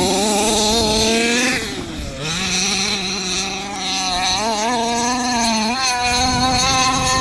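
HPI Baja 5B RC buggy's ported 30.5cc two-stroke engine with a side pipe, howling at full throttle. It revs up over the first second and a half and drops briefly about two seconds in, then holds high revs with small wavers for the rest.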